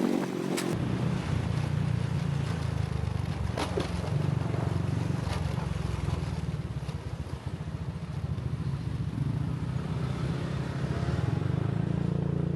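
Motor scooter riding through city traffic: a steady low engine and road rumble mixed with rushing noise, with a change in the sound about a second in.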